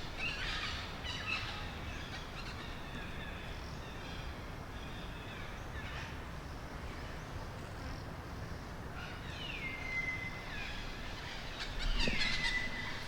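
Forest ambience with scattered faint bird calls; near the end a bird gives a whistle that falls in pitch and then holds, twice.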